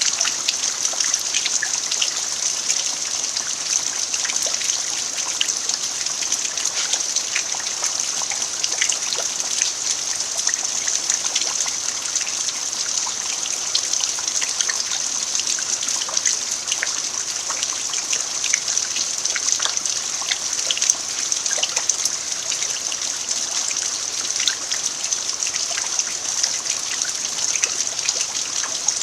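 Steady rain falling on a dirt yard: an even hiss of rainfall with many separate drop ticks scattered through it.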